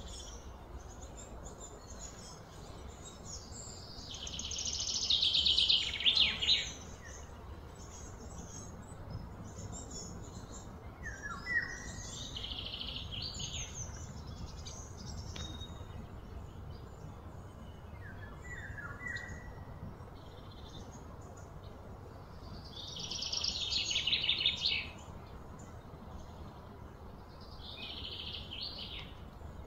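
Birds calling: short falling chirps and two high, rapid trills that build for a couple of seconds and then stop suddenly, over a steady low background rumble.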